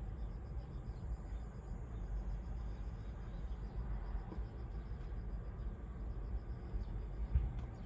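Insects chirping in a steady pulsing trill over a low, even rumble, with one brief tap near the end.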